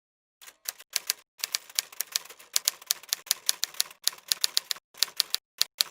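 Keys being typed: sharp clicks in quick, irregular runs of several a second, with short pauses between runs, starting about half a second in.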